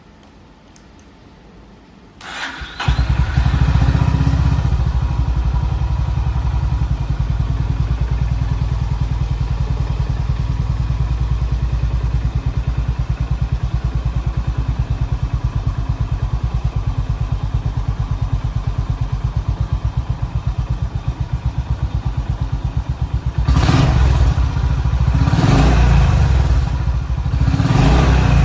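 Honda GB350's air-cooled single-cylinder engine cranked on the starter and catching about three seconds in, then idling with a steady, even pulse. Near the end it is revved in three short blips.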